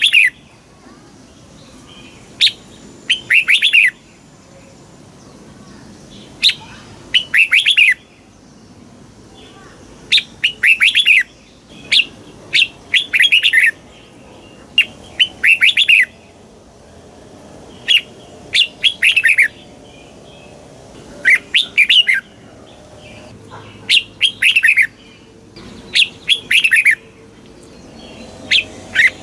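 Red-whiskered bulbul singing short, quick phrases of falling whistled notes, one phrase every two to three seconds, over a faint steady background hiss.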